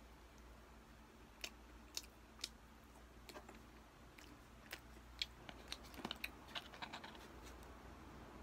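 Faint close-up eating sounds: a few sharp clicks of chewing, three about half a second apart, then a quicker run of small clicks and taps as a plastic spoon and fingers work at fried chicken in a cardboard box.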